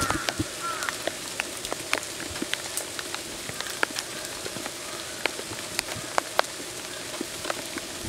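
Rain falling, with scattered drops ticking onto a wet surface. A short bird call sounds near the start.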